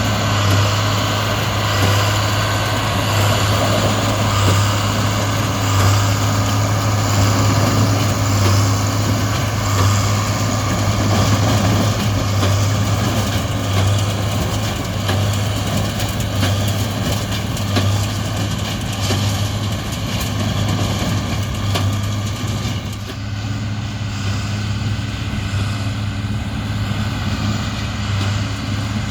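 A large diesel engine running steadily with a deep, even hum.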